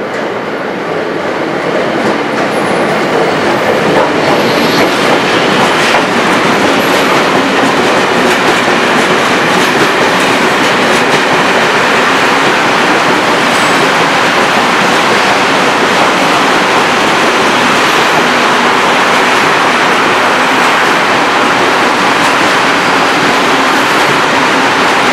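Freight train of covered hopper wagons hauled by a ČD Cargo class 363 electric locomotive running past close by: a steady noise of wheels on rails with clicks over the rail joints. It grows louder over the first few seconds as the train nears, then holds steady as the wagons go by.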